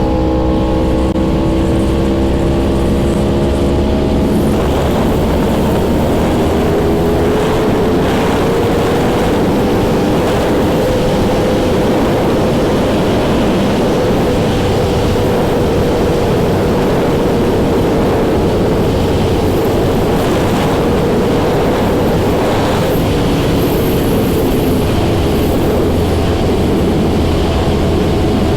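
Yamaha R1 sport bike's inline-four engine running steadily under way, its note first clear and then partly covered by a loud rushing noise from about four seconds in. The pitch climbs gently to about the middle and then eases slowly down.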